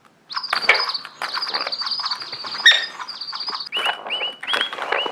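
A small bird chirping and trilling in a rapid, high-pitched run of notes, first held high, then in quick repeated phrases a little lower.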